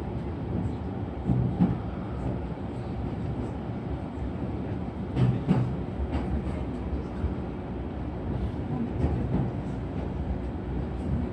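Electric commuter train running at a crawl under a strong-wind speed restriction, heard from inside the car: a steady low rumble of the running gear, with a double clack of the wheels about every four seconds.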